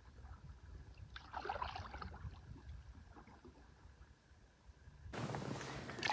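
Canoe paddle stroke in calm water: a soft splash and drip about a second in, then quieter water sounds. Near the end a steady rushing noise cuts in abruptly.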